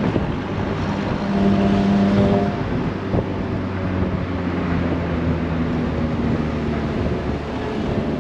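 Mazda MX-5 Miata ND's four-cylinder engine running at highway speed, its note shifting a little, under heavy wind and tyre noise in the open, top-down cockpit.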